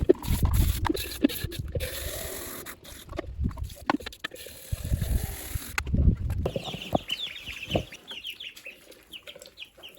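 Rustling and low thumps of handling for the first several seconds, then, from about six seconds in, a run of quick high chirps and clucks from dwarf chicken hens.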